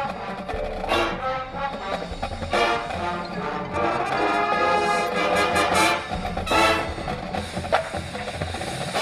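High school marching band playing live, brass sustaining chords over drumline percussion, with several loud accented full-band hits.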